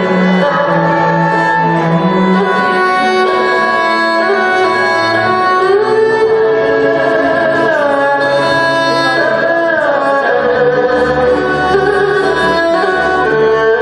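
Chinese traditional instrumental ensemble playing, with sustained held notes and several melody lines sliding in pitch together.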